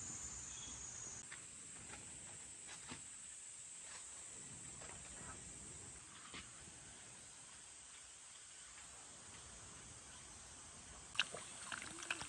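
Insects, crickets by their sound, chirring steadily in a high, thin band over a quiet forest background, with scattered faint ticks and a sharp click near the end.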